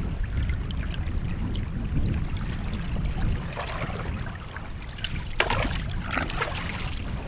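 Canoe on a river: water swishing and trickling around the hull and paddle over a steady low rumble, with one short sharp sound about five and a half seconds in.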